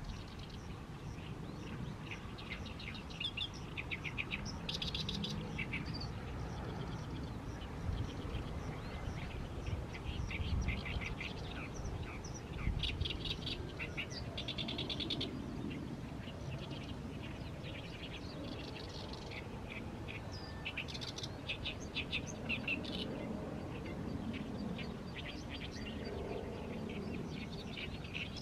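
Oriental reed warbler singing its loud, harsh, chattering song: phrases of rapid grating notes repeated every second or two, with short pauses between them.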